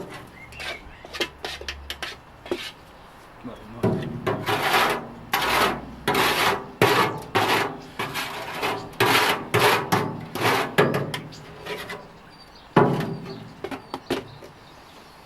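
Rough rubbing or scraping strokes, hand work on a hard surface. Scattered clicks come first, then a run of about a dozen strokes at roughly two a second, and one more stroke near the end.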